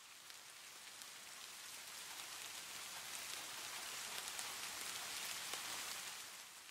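Rain sound effect: an even hiss of falling rain with faint, scattered drop ticks. It swells slowly to a peak about four to five seconds in, then fades away near the end.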